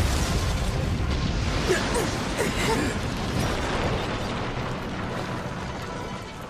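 Cartoon explosion sound effect: a sudden blast followed by a deep rumble that slowly dies away, with background music underneath.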